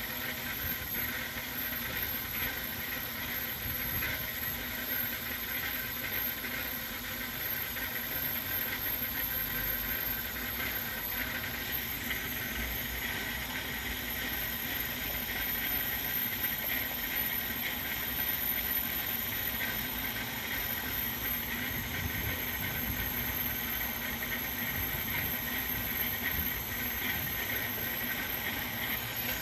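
2002 Ford Explorer engine idling roughly, with a steady high-pitched squealing whine over an uneven low rumble.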